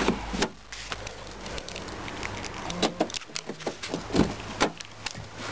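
A few scattered sharp clicks and knocks from handling a car door and its handle, which is stuck and will not open from the outside.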